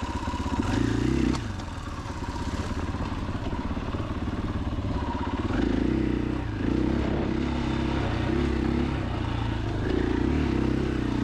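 KTM 500 EXC-F's single-cylinder four-stroke engine running at low revs, with the throttle opened and eased off several times as the bike works along a slick, muddy trail.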